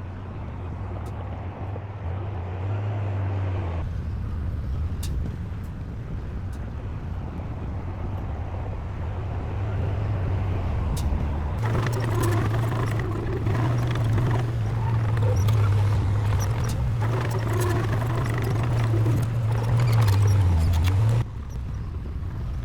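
Diesel engine of heavy earthmoving machinery running steadily. About halfway through it works harder, with repeated metallic clanking over it, then eases off suddenly near the end.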